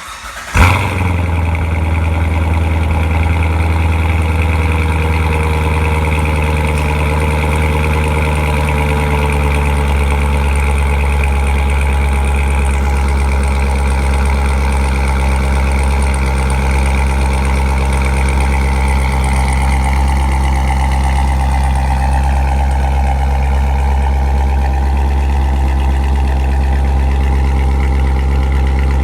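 2017 Corvette Stingray Z51's 6.2-litre LT1 V8 cold-starting in Track Mode: a loud flare about half a second in, then a steady, loud idle through the exhaust.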